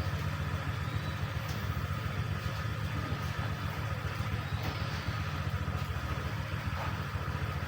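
Steady low motor hum, like an idling engine, with a couple of faint high chirps, one near the start and one around the middle.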